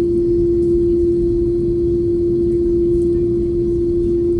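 Jet airliner cabin noise: a steady, deep rumble of engines and airflow with one unchanging humming tone over it.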